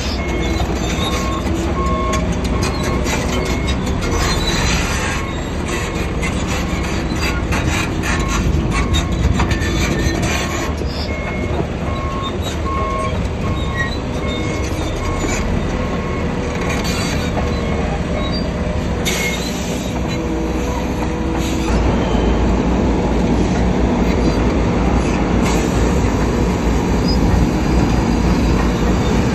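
Crawler bulldozer working: a heavy diesel rumble, with the steel tracks squealing in on-and-off high tones and clanking. The machine gets louder about two-thirds of the way through.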